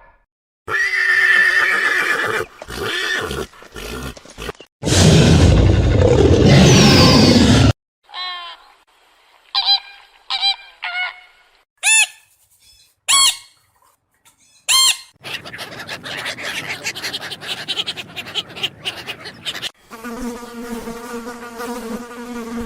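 A quick succession of different animal sounds: a pitched call, then a loud rough call, then a series of short, separate chirping calls, and from about two-thirds of the way in, insect buzzing that settles into a steady, pitched, fly- or mosquito-like buzz.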